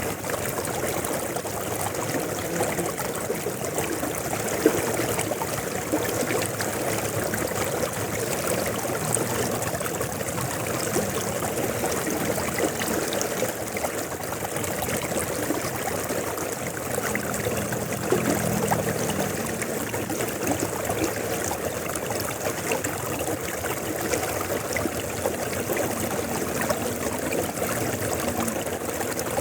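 River water flowing steadily, with a continuous rush and small splashing gurgles.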